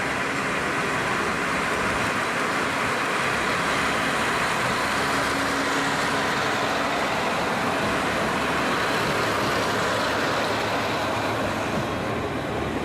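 Diesel railcar pulling out of a station, its engine and wheels giving a steady, loud running noise. The higher hiss thins out near the end.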